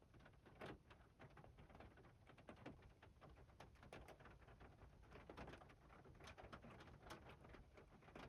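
Near silence, with faint, irregular ticks and clicks scattered throughout.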